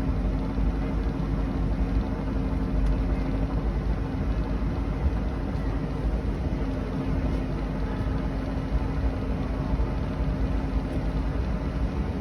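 26-foot Rendezvous boat running underway at a steady speed: an even engine drone with a held tone over a constant low rumble.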